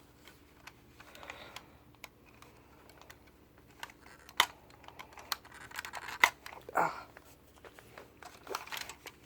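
Small clicks and scratches of fingers prying at the trunk lid of a toy Porsche 911 model car, with a few sharper ticks about halfway through.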